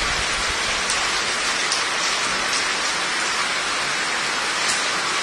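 Heavy monsoon rain pouring steadily: a dense, even hiss of rain on hard surfaces, with a few faint taps of single drops.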